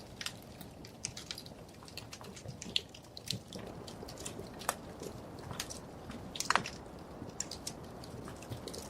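Wood fire crackling in a fireplace: irregular sharp pops and snaps over a steady low rush of burning, with a louder pop about two-thirds of the way through.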